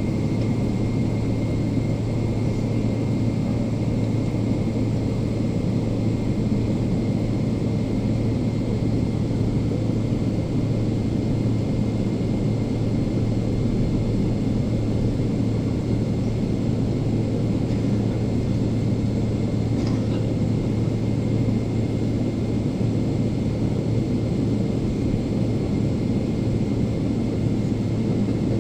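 Steady cabin drone of a Boeing 777-300ER, its GE90 engines and airflow making an unchanging low hum with a faint constant whine above it.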